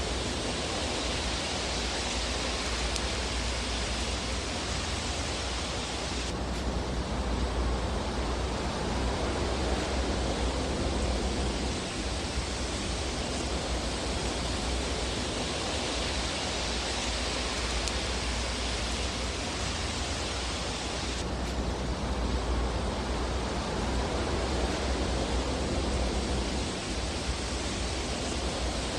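Fireplace ambience track: a steady rushing hiss over a low rumble, with no distinct crackles, its tone shifting slightly about six seconds in and again about twenty-one seconds in.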